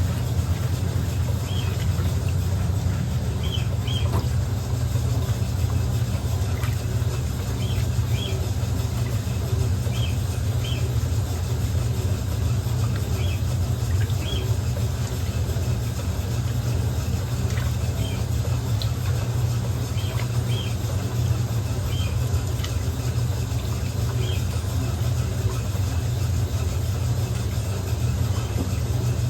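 Electrolux LM08A top-loading washing machine running with a steady low hum, with faint short high chirps every second or two.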